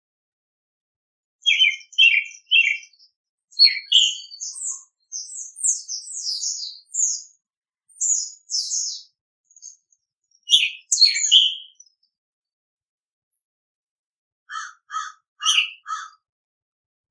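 Songbirds chirping and calling in short bursts: a quick run of high chirps, then near the end a series of four evenly spaced nasal notes.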